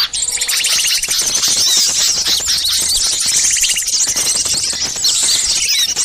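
Bird-lure recording of many small songbirds in a noisy commotion, giving agitated, overlapping scolding calls: fast high trills and sharp chirps, the mobbing din used to draw wild birds in.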